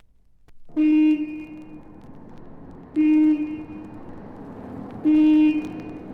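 A vehicle horn sounds three times, each a short blast of one pitch about two seconds apart, over a steady running noise.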